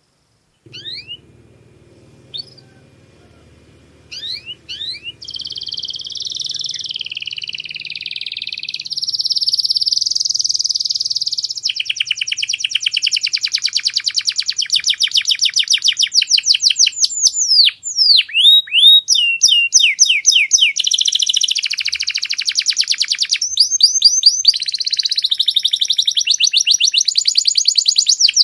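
Domestic canary singing. It opens with a few separate rising chirps. From about five seconds in, it becomes a long, unbroken song of fast trills and rolling repeated notes that grows louder.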